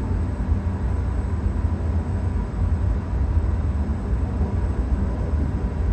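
Tohoku Shinkansen train running, heard inside the passenger cabin as a steady low rumble with an even hiss above it.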